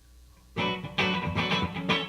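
A live Latin-fusion band starts playing about half a second in, led by strummed guitar chords over bass, struck in a steady rhythm about twice a second.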